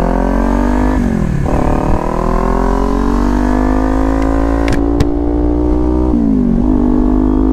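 Kawasaki Ninja 400 parallel-twin engine accelerating on the road, its pitch climbing steadily, with an upshift about a second in and another about six seconds in. Low wind rumble throughout, and two brief sharp clicks near the middle.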